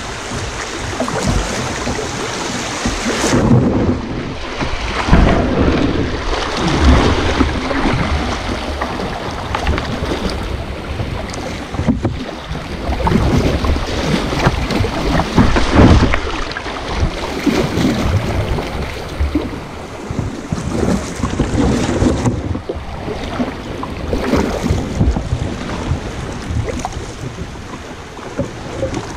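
Kayak pushing through fast, rushing water, with paddle splashes and wind buffeting the microphone. The water sound is loud and continuous, swelling and easing.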